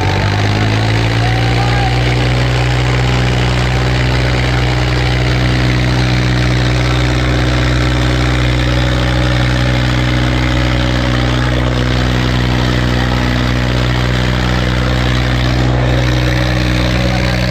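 Tractor diesel engines running hard at high, steady revs, straining under heavy load as the tractors pull against each other in a tug-of-war. The engine pitch climbs right at the start and then holds level.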